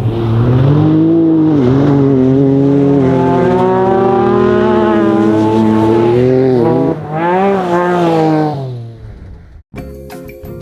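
Subaru rally car's engine revving hard under load, its pitch sagging and climbing with throttle and gear changes. It dips twice, about two seconds in and again around seven seconds, then fades away. Music starts near the end.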